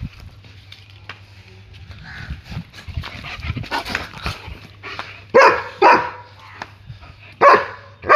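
German Shepherd dog barking in play: quieter scattered sounds at first, then four loud, sharp barks in two pairs in the second half.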